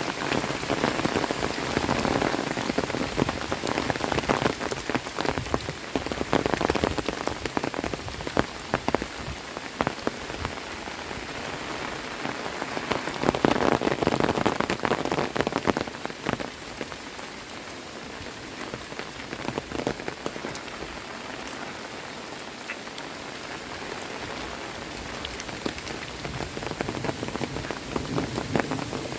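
Heavy rain pouring onto surfaces, a steady hiss full of sharp individual drop strikes. It swells louder about halfway through, then eases to a softer, steadier fall.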